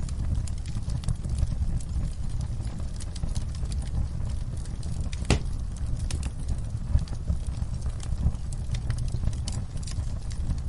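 Wood fire burning in a fireplace: a steady low rumble of the flames with irregular crackles and snaps from the burning logs, and one louder pop about five seconds in.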